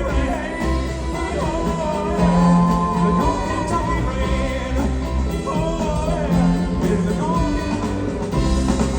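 Live band music from a rock-and-roll ballad: a steady bass line under a wavering lead melody.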